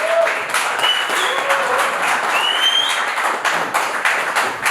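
Spectators applauding and cheering, with a few high shouts, the clapping growing more even near the end.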